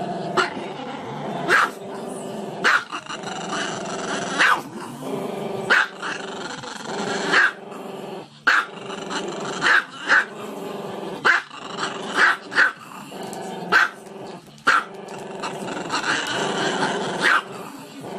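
A small long-haired black-and-tan dog growling continuously and breaking into sharp barks roughly once a second.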